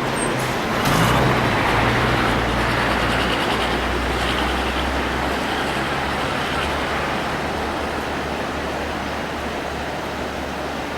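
Steady rumble and hum of a vehicle's engine and road noise while driving, with an even rushing hiss over a low drone that swells about a second in and eases slightly later.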